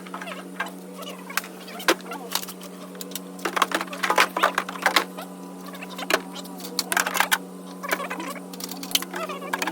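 Metal hand tools clinking and clattering as they are picked up and set down, over a steady electrical hum.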